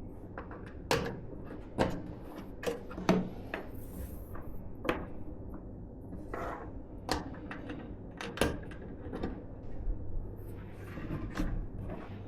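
Irregular light clicks and knocks of PC hardware being handled and fitted during assembly, a dozen or so scattered sharp taps, the firmest about one, two and three seconds in and again past eight seconds.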